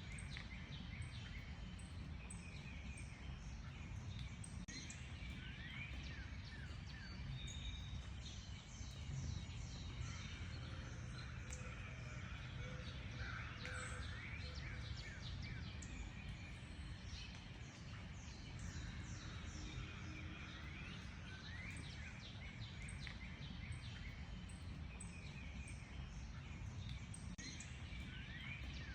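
Several small songbirds chirping and singing together in short, quick rising and falling notes, over a steady low rumble.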